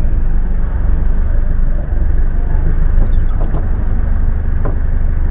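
Car engine idling, a steady low rumble picked up by a dashcam mic inside the car, with a couple of faint clicks about three and a half and nearly five seconds in.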